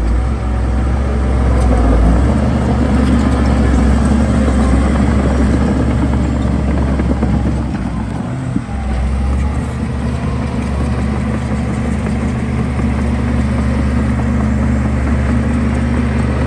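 Heavy diesel engine of earthmoving machinery running steadily, growing louder about two seconds in and dipping briefly a little past the middle.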